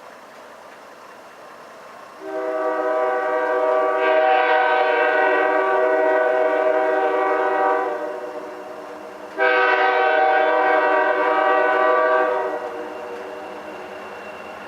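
Diesel freight locomotive's multi-chime air horn sounding two long blasts, the first about six seconds and the second about three, over the steady running of the locomotive's engine.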